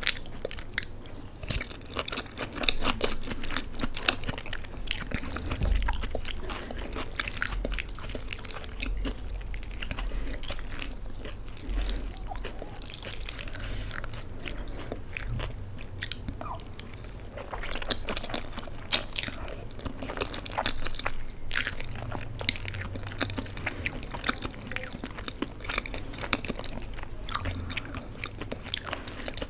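Close-miked chewing and biting of a mouthful of Maggi instant noodles with green capsicum, with wet mouth sounds, some crunch and many irregular small clicks.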